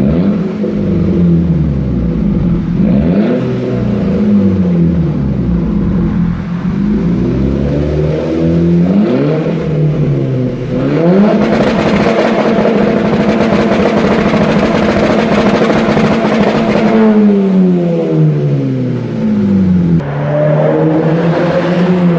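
A 2.0 TSI turbocharged four-cylinder engine with a stage 2 tune, heard through an RM Motors aftermarket exhaust, is revved repeatedly. Several rises and falls in pitch lead into a long rev held high for about six seconds from roughly the middle, which then drops slowly back down.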